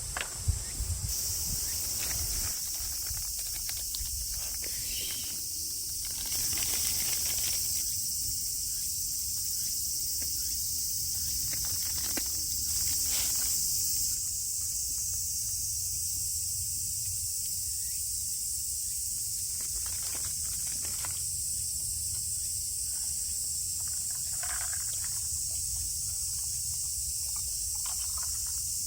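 Steady high-pitched chorus of summer insects droning without a break, over a low rumble, with a few faint clicks and knocks.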